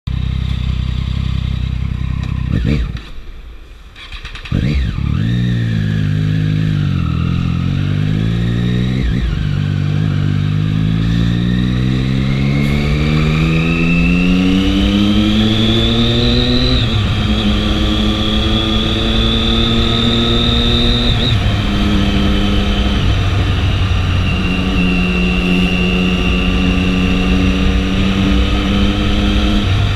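Triumph 675 three-cylinder motorcycle engine being ridden. After a brief lull a few seconds in, its pitch rises and falls, then climbs steadily in a long pull. The pitch drops at a gear change about 17 seconds in and holds fairly steady, with another shift a few seconds later.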